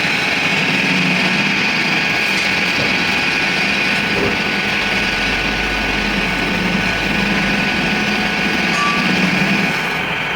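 A workshop machine running steadily: a continuous mechanical drone with a high, steady whine on top.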